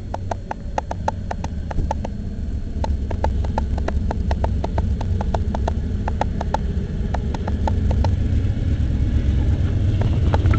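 Freight train cars rolling past at slow speed: a steady low rumble with irregular clicking from the wheels, growing slightly louder toward the end.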